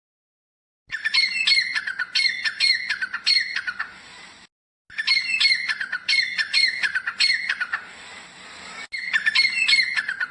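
Francolin calling: three bouts of quick, harsh, grating notes, each bout a run of several notes lasting three to four seconds.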